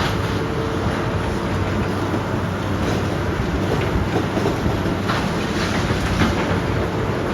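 Heavy demolition machinery running steadily, with scattered sharp cracks and crunches of breaking building debris.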